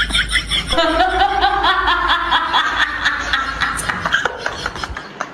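High-pitched giggling: a quick, even run of short laughs, about four a second.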